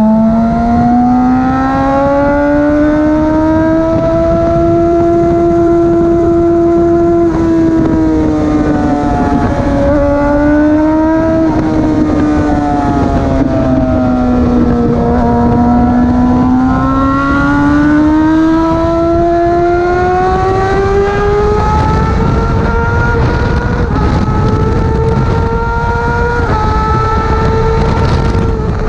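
Motorcycle engine pulling hard at high revs, its pitch climbing and falling with the throttle and stepping abruptly a few times at gear changes, over a steady rushing noise.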